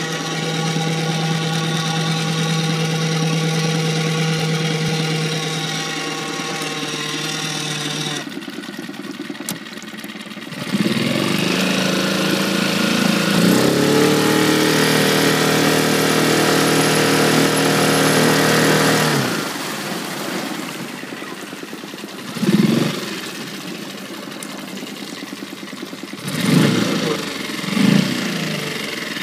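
Tohatsu/Nissan outboard motor running steadily, then revved up with a rising pitch and held at higher revs for several seconds before dropping back to idle, followed by three short throttle blips near the end. The engine has a strange noise that the owner cannot diagnose.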